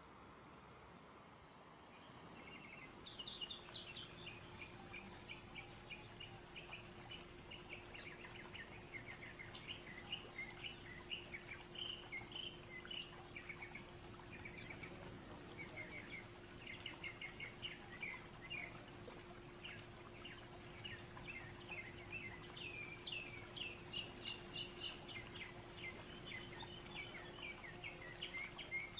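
Birds chirping in quick, dense runs of high notes, starting about three seconds in, over a faint steady background hiss with a low, even hum.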